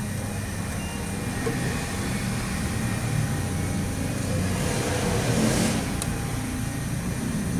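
A motor vehicle engine running steadily, with a brief hiss about five seconds in and a sharp click about a second later.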